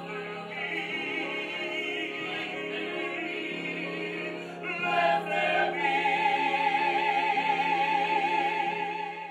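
A chorus of mixed voices singing sustained chords in close harmony. About five seconds in it swells, and one high voice rises above the rest on a long held note with wide vibrato, fading out near the end.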